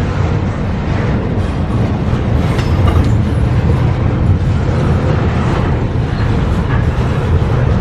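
CSX freight train cars rolling past, a steady low rumble with light wheel-on-rail clatter.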